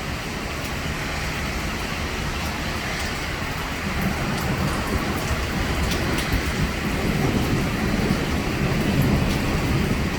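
Heavy rain and wind in a severe thunderstorm, a steady loud rush. Thunder rumbles low from about four seconds in, growing louder toward the end.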